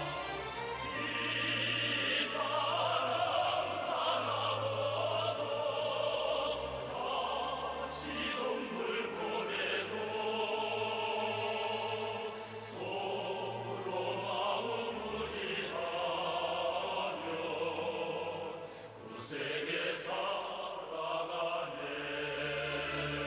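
Operatic music: sung melody over orchestral accompaniment, with held bass notes underneath.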